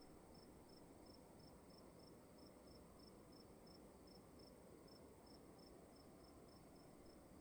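Faint crickets: one chirping evenly about three times a second, over a continuous higher-pitched trill and a low hiss of room tone.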